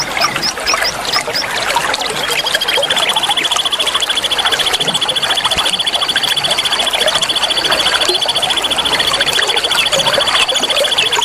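Songbirds singing over trickling water: a run of quick, high, down-slurred chirps in the first second or so, then from about two seconds in a rapid, even trill held at one high pitch for about nine seconds.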